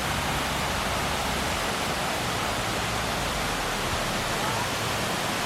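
Steady rush of falling water, an even hiss and splash that stays level throughout.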